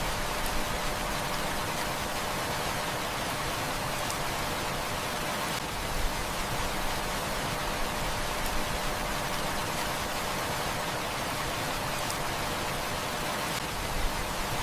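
Heavy rain falling steadily in an even hiss, with a few faint sharp ticks now and then.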